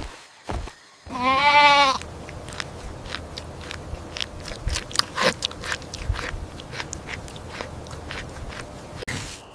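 A goat bleats once with a quavering call, about a second in. Then comes a long run of small crunching and clicking sounds, like an animal chewing.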